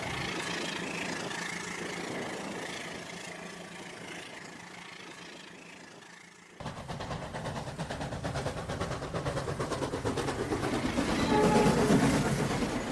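Train running on rails. There is an abrupt cut about six and a half seconds in to a louder, closer passage of rapid wheel clatter that swells near the end.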